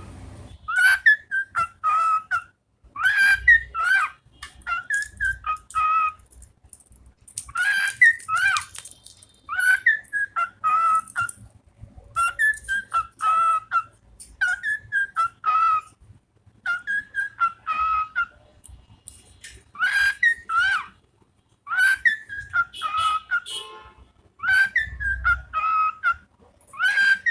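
Pet bird whistling the same short tune again and again, each phrase of a few quick rising and falling notes and about a second long, with short pauses between.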